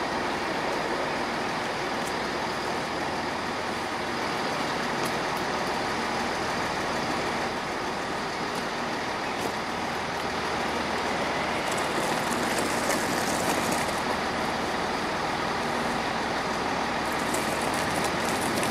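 Train at a station platform, a steady mechanical noise with faint high clicks in the second half.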